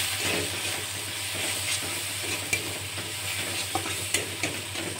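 Onions, tomato and ground spices sizzling in mustard oil in a karai while a metal spatula stirs and scrapes them, with scattered clicks of the spatula against the pan.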